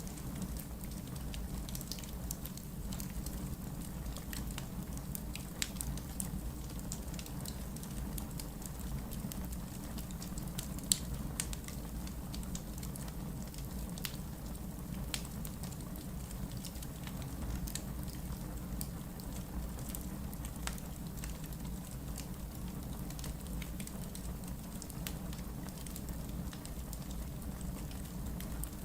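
Wood logs burning in a fireplace: a steady low hiss of the flames with frequent small crackles and pops, the sharpest pop about eleven seconds in.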